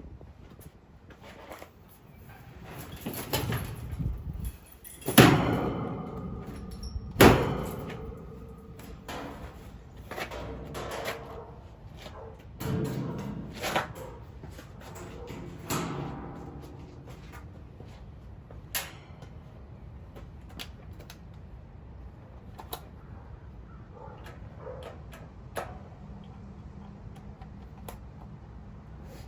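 Sheet-metal panels of a heat pump's outdoor condensing unit being taken off: scraping and rattling, two loud ringing metal clanks about five and seven seconds in, then scattered small clicks and taps.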